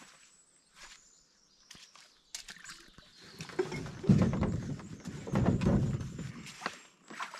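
Footsteps on a trail: scattered steps at first, then from about four seconds in a louder stretch of low thudding and rustling that dies away near the end.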